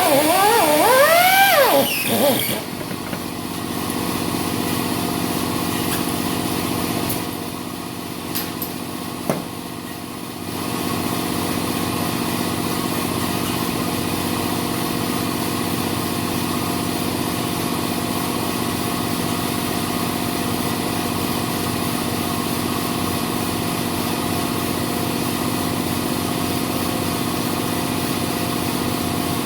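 A small motor running steadily with a hum of several fixed tones, dropping away for a few seconds about a third of the way in, then coming back. In the first couple of seconds a warbling tone glides up and down over it.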